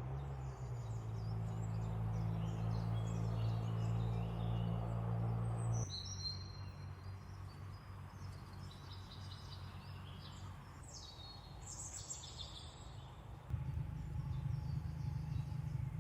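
Several songbirds chirping and calling over a steady low rumble. The rumble cuts out abruptly about six seconds in and returns near the end.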